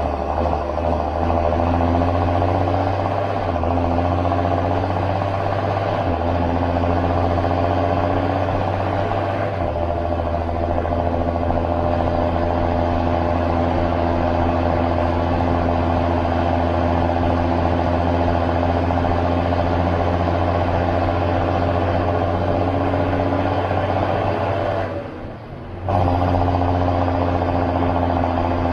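John Deere 7530 Premium tractor's six-cylinder diesel engine running steadily while hauling a load of maize. Its note shifts a few times in the first ten seconds, and the sound drops away for about a second near the end before coming back.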